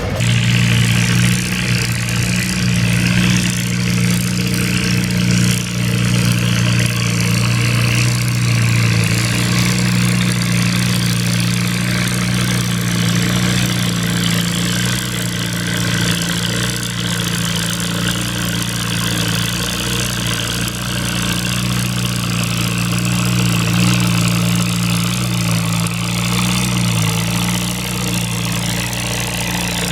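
Antique farm tractor engine running steadily at a fairly even speed for the whole stretch.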